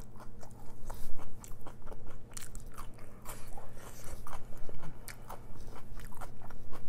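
A person chewing a mouthful of food close to the microphone, with many small crunchy clicks and wet mouth sounds.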